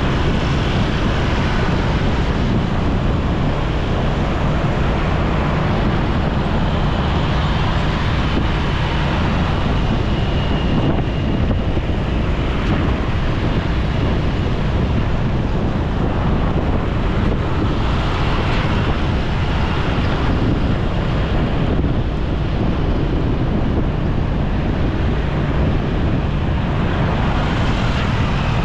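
Steady wind rush on the microphone of a moving motorcycle, with its engine and road noise underneath, unbroken throughout.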